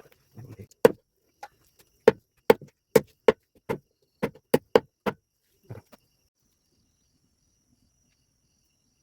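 Chopping with a blade: about a dozen sharp strokes in some five seconds, irregularly spaced, then it stops.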